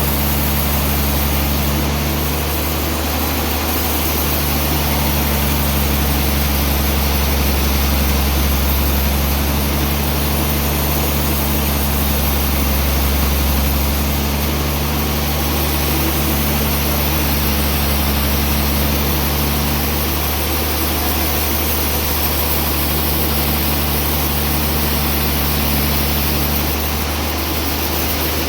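Sawmill machinery running steadily, a loud low drone with a constant hiss above it.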